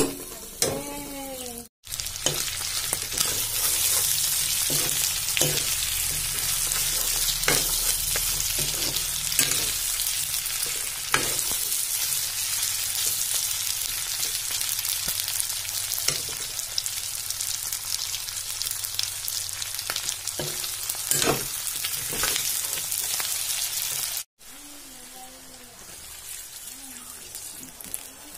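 Kadaknath chicken pieces frying in hot oil in a pan: a loud, dense sizzle, with the clicks and scrapes of a metal ladle stirring against the pan. The sizzle cuts in about two seconds in and cuts off abruptly a few seconds before the end.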